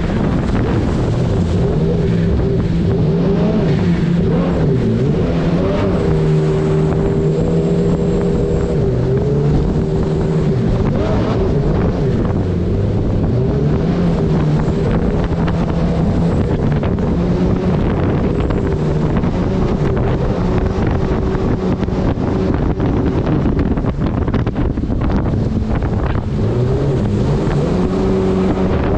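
Turbocharged Honda engine of a mini jet boat running hard, its pitch rising and falling as the throttle changes, with rushing water and wind noise over it.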